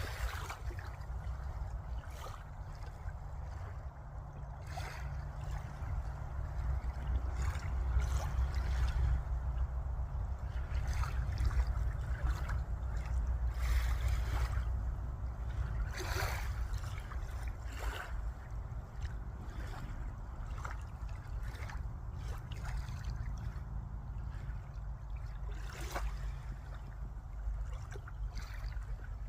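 Water splashing and lapping in irregular little flares over a steady low rumble that swells for several seconds near the middle.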